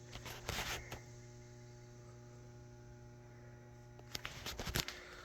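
A low, steady hum with a few short clicks and knocks, about half a second in and again near the end.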